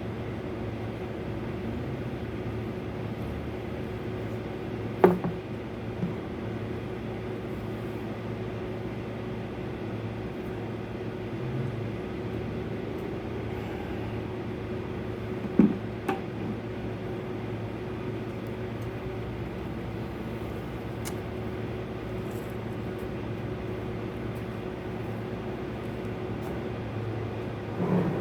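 Tanker semi-truck's diesel engine running with a steady hum, with three sharp knocks or clunks: one about five seconds in, one about halfway, and one near the end.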